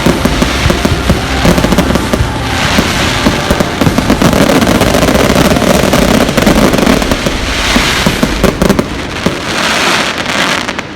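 Fireworks going off in a dense, rapid barrage of bangs and crackles, thinning out near the end.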